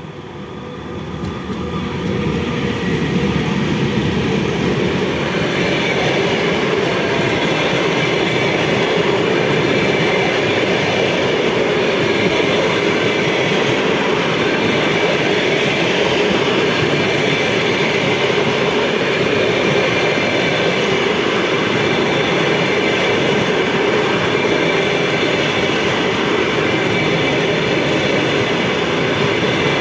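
A train passing close by: the sound of its wheels on the rails grows over the first three seconds and then holds loud and steady as the cars roll past.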